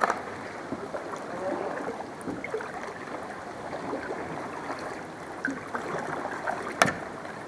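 Water gurgling and lapping around a kayak, with small splashes throughout and one sharp knock nearly seven seconds in.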